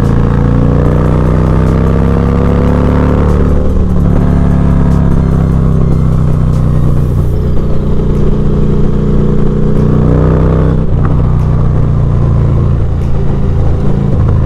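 Motorcycle engine running under way at steady revs, with its pitch shifting at breaks about four seconds in and again near eleven seconds.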